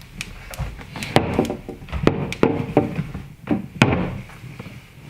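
A handful of irregular knocks and thuds, each with a short ring, the loudest about four seconds in.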